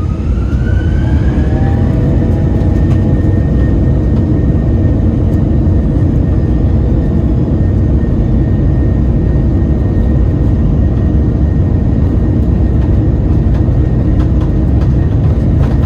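Airbus A321-200 jet engines heard from inside the cabin spooling up to takeoff thrust: a whine rises over the first couple of seconds, then holds steady over a loud, continuous low rumble of the takeoff roll.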